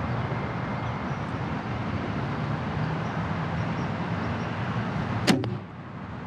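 A PSE Brute ATK compound bow shot: one sharp crack of the string and arrow release about five seconds in, over a steady background rumble.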